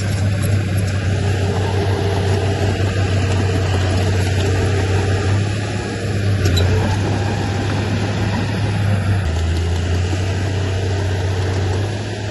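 Diesel engine of heavy earthmoving equipment running steadily with a deep low hum, its note dropping slightly about nine seconds in.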